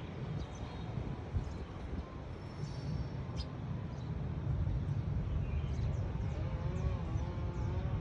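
Faint, short, high chirps of a small songbird over a steady low rumble. About three-quarters of the way through, a wavering drawn-out tone joins in the background.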